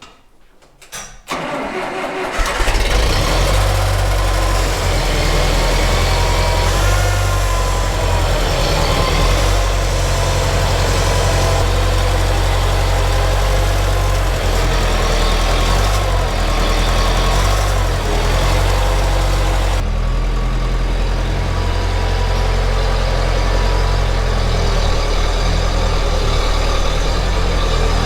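An engine starts about a second in and then runs steadily.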